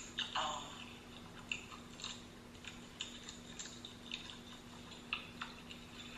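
A person chewing and biting into crunchy fried shrimp, with scattered short crackly crunches, over a steady low hum.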